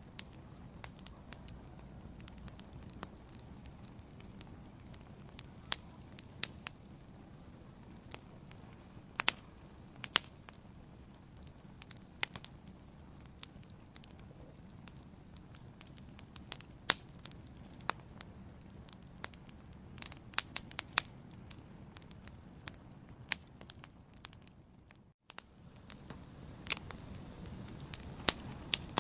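Wood fire burning in a fireplace: irregular sharp crackles and pops over a low, steady rumble of the flames. The sound drops out for an instant about 25 seconds in, and the rumble comes back slightly louder.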